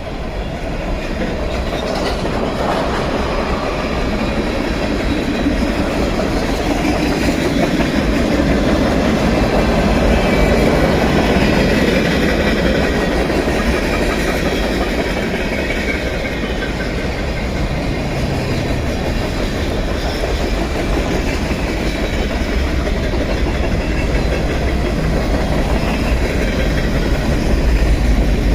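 Train passing at close range: a loud, steady rumble of railcars rolling by, with wheels clattering on the rails.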